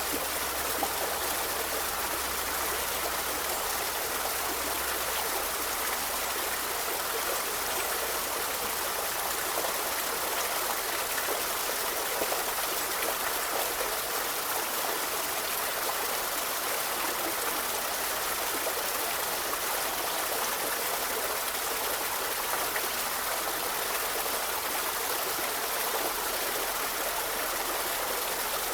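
A forest river flowing, a steady, unbroken rush of water.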